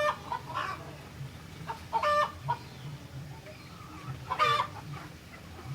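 Sooty-headed bulbul (kutilang) calling: short, harsh, chattering notes in three louder bouts about two seconds apart, with fainter notes between them.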